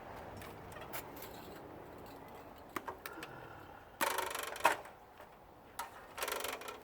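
Scattered light metallic clicks and knocks from hand work on the metal parts of a central air conditioner being dismantled. There are two louder harsh scraping bursts, one about four seconds in and one near the end.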